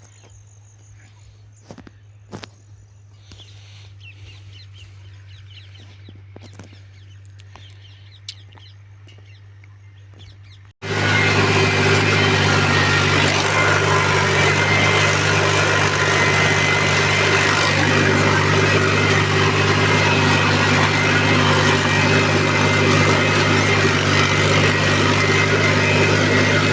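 Mahindra 265 DI tractor's diesel engine running loudly and steadily, starting abruptly about eleven seconds in. Before it, birds chirp over a faint low hum.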